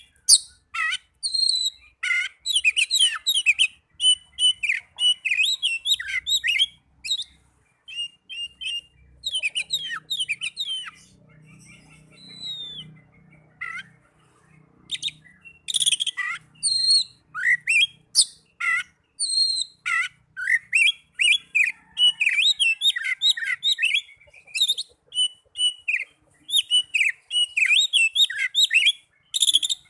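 Oriental magpie-robin singing a varied song of rapid whistles and chirps in quick phrases, easing off briefly about halfway through.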